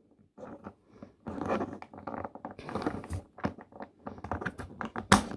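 Plastic parts of a small transforming toy figure clicking, scraping and rattling as it is handled and pushed together, with a sharper click about five seconds in.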